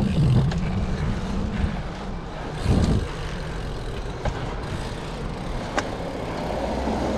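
Steady rumble of road and wind noise while riding a bicycle, with a stronger low rumble about three seconds in and a few light sharp clicks.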